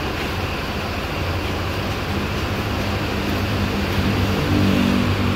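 Large vehicle engine running with a steady low hum, getting a little louder in the second half.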